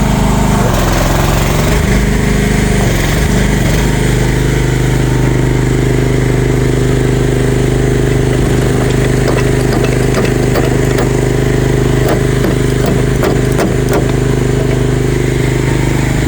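An engine running steadily. Its speed shifts in the first few seconds, then holds, with a few light clanks in the middle.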